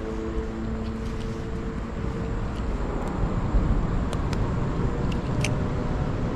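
Steady rushing of creek water flowing over rocks, with a faint hum early on and a few light clicks.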